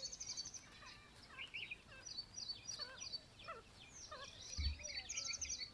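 Several wild birds chirping and calling together: quick high trilled chirps near the start and again near the end, with short falling whistled notes throughout. A soft low thump about four and a half seconds in.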